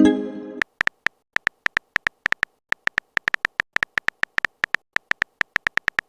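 Message-typing sound effect: a string of short, sharp pitched clicks at about four or five a second, unevenly spaced. It follows a brief ringing chime at the very start.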